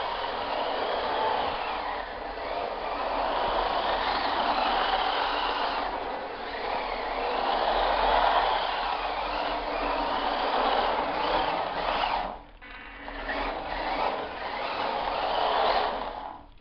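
Small electric motor of a WPL D-12 RC truck whining as it drives, its pitch rising and falling with the throttle over a steady hiss. The sound drops away briefly about twelve seconds in, then picks up again.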